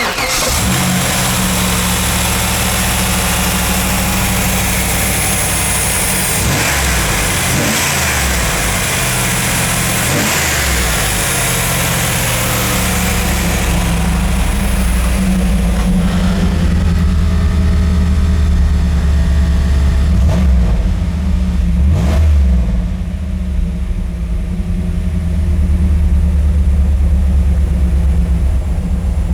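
1993 Pontiac Firebird Formula's LT1 5.7-litre V8 running at idle, with several brief throttle blips about six to ten seconds in and again near twenty-two seconds.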